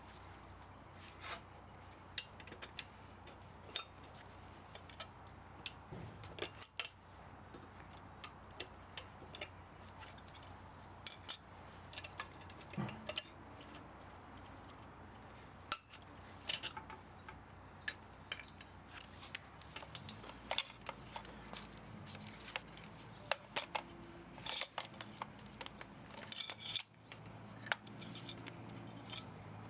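Hand tools working on an electric pump motor being stripped for scrap metal: irregular sharp metallic clicks, snips and scrapes. A low steady hum joins about two-thirds of the way through.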